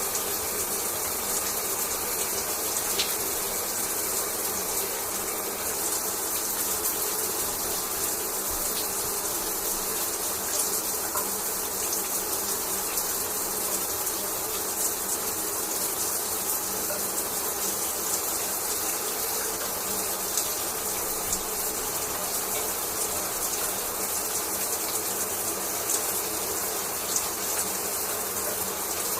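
Shower water running steadily, spray hissing and pattering, with small scattered ticks of droplets.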